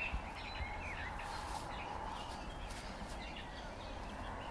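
Small birds chirping in short calls, mostly in the first second, over a steady outdoor background hiss.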